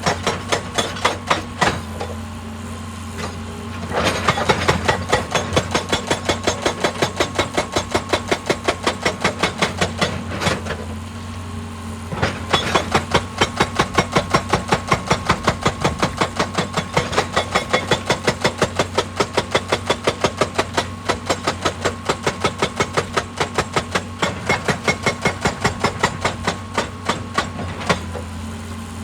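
Excavator-mounted hydraulic breaker hammering rock in fast, even blows of about four to five a second, pausing twice for a couple of seconds, over the excavator's diesel engine running steadily.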